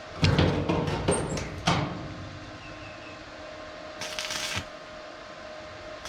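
Handling noise: a quick cluster of clattering knocks in the first two seconds, then a short scraping rustle about four seconds in, over a faint steady hum.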